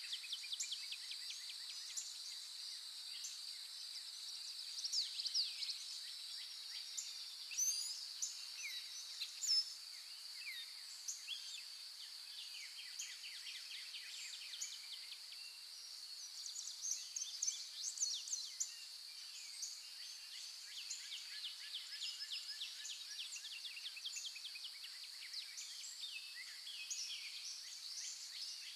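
Many birds chirping and calling in quick, short notes over a steady, high-pitched insect drone.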